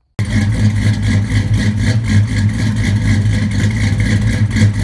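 Car engine and exhaust running loud and steady at an unchanging pitch, with a faint regular pulsing.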